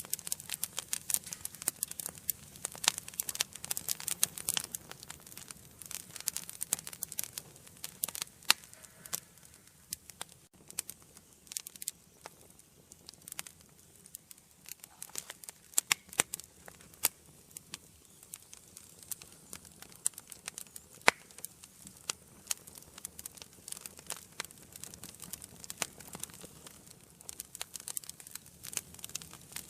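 Wood fire burning in a fireplace: irregular sharp crackles and pops over a soft, steady hiss of flame.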